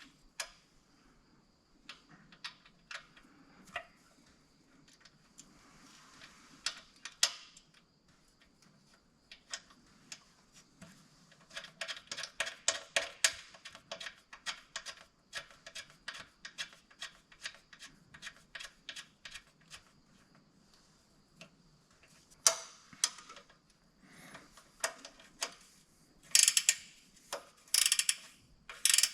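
Hand ratchet wrench clicking in quick runs of several clicks a second, with scattered taps and knocks of tools and parts in between, and a few louder rasping bursts near the end.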